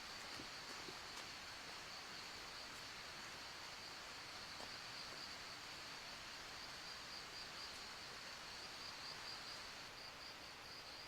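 Insects trilling in one continuous high-pitched drone that turns faintly pulsing toward the end, over a soft outdoor hiss, with a few faint clicks near the start.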